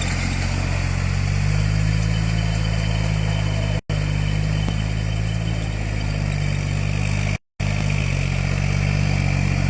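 47 HP New Holland tractor's diesel engine running steadily, its pitch rising slightly about a second and a half in. The audio cuts out briefly twice, once near the middle and again later.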